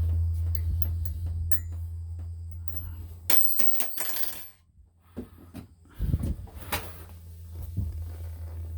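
Small metal parts and tools clinking and knocking while a shower handle is fitted, with one cluster of bright metallic ringing clicks about three and a half seconds in. A steady low hum runs under it and stops about halfway.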